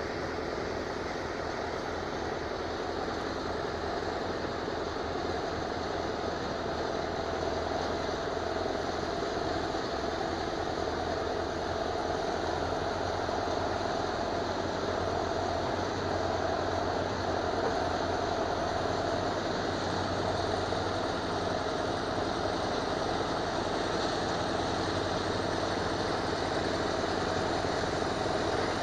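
Diesel engine of a KAMAZ logging truck running steadily, growing slightly louder over the stretch.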